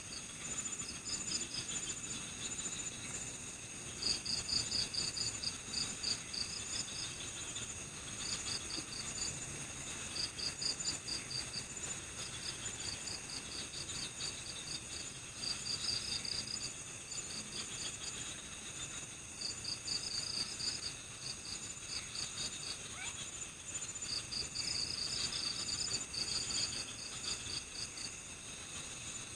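Night-time forest insect chorus. A cricket chirps in quick runs of rapid pulses lasting about a second, repeating every few seconds, over the steady high-pitched trilling of other insects.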